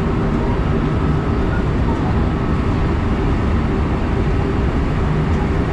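Electric train running steadily on the line, heard from inside the car behind the driver's cab: an even, unchanging rumble of wheels on rail and running gear.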